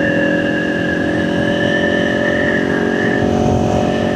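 Kawasaki Ninja 400's parallel-twin engine running at a steady cruising speed under way, with wind noise on the helmet microphone.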